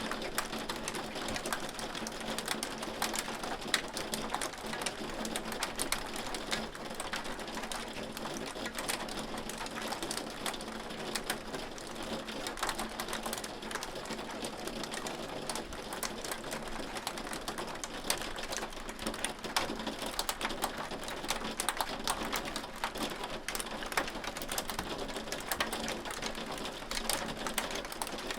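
Hail falling: a dense, steady stream of sharp clicks as hailstones strike a hard surface, over a rain-like hiss.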